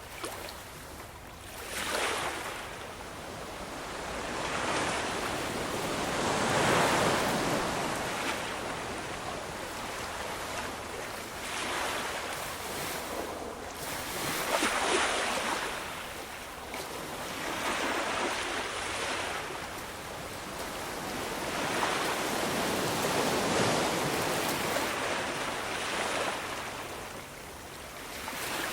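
Ocean waves washing in, a rushing noise that swells and fades again every few seconds as each wave breaks.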